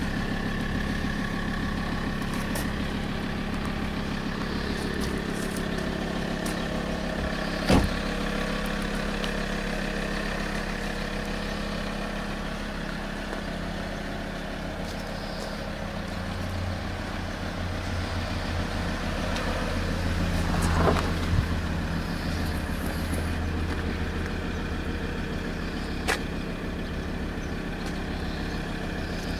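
Alfa Romeo 159 2.4 JTDM five-cylinder turbodiesel idling steadily, its hum swelling slightly past the middle, with a few sharp clicks over it.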